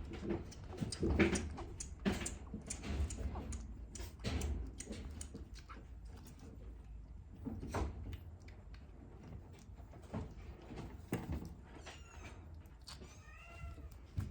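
Scattered light knocks and clicks of handling, then a kitten mews twice near the end, short arched calls rising and falling in pitch.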